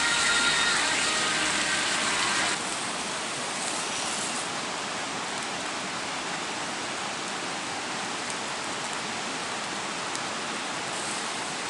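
Meat sizzling on a grill over a campfire: a steady hiss with no clear strokes, dropping suddenly in level about two and a half seconds in.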